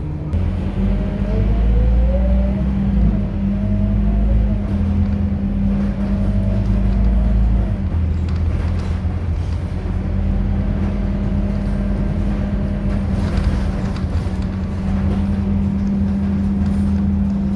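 Scania K230UB city bus under way: a deep engine drone with a whine that rises in pitch over the first few seconds as the bus picks up speed, dips, climbs again, then holds steady as it cruises.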